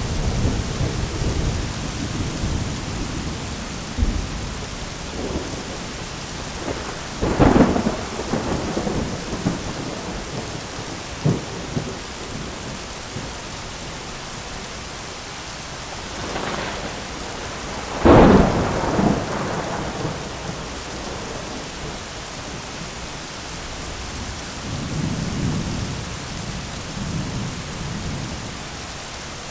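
Steady rain with rolling thunder: a sharp clap and rumble about a quarter of the way in, a louder one a little past halfway, and softer distant rumbles near the end.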